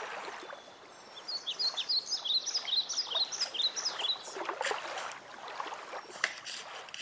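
A bird chirping: a quick run of short, high, falling notes that starts about a second in and lasts about three seconds, over faint room background.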